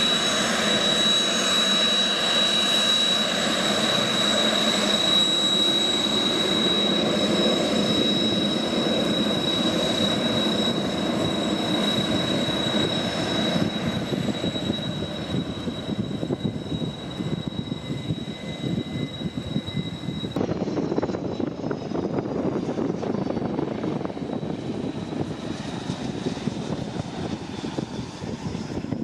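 Kawasaki T-4 jet trainer's turbofan engines running with a steady high-pitched whine over a broad rush. About twenty seconds in the sound cuts to a lower jet engine rumble, with a faint rising whine near the end.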